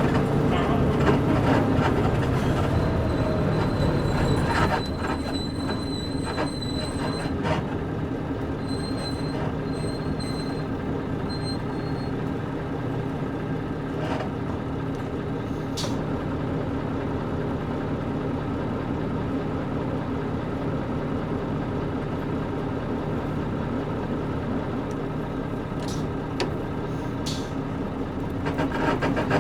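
Cabin sound of a KC-UA460LSN leaf-sprung one-step bus with a PG6 diesel engine: the engine hum is louder for the first few seconds, then drops to a lower steady drone, and rises again near the end. Scattered clicks and creaks sound from the body over the drone, and a run of short high beeps sounds in the first dozen seconds.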